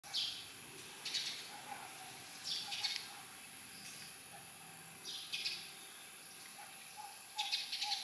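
Birds chirping in short bursts every second or two, over a faint, steady high-pitched whine.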